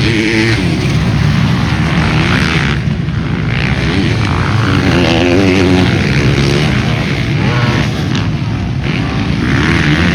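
Motocross dirt bike engine racing, its revs rising and falling as the throttle is worked, with wind rush over it. The revs drop off briefly about three seconds in and again near eight seconds.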